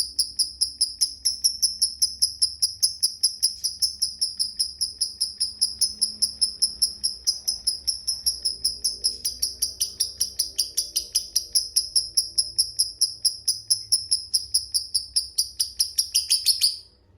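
Lovebird's long 'ngekek' chatter: a rapid, high-pitched series of shrill notes, about five a second, kept up without a break for over fifteen seconds and stopping suddenly near the end.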